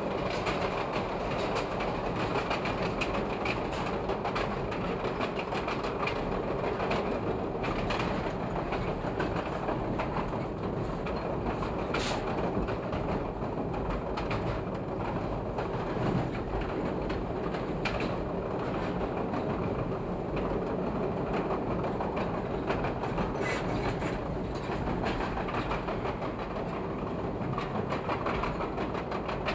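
Chicago 'L' rapid transit train running along elevated track, with a steady rolling noise and wheels clicking over rail joints and switchwork.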